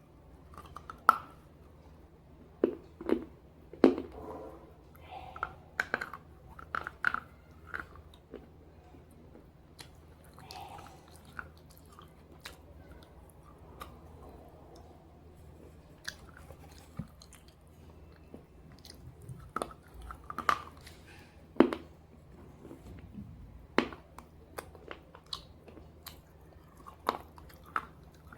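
Slate pieces coated in red gravy being bitten and chewed: sharp, irregular crunches with softer chewing between them.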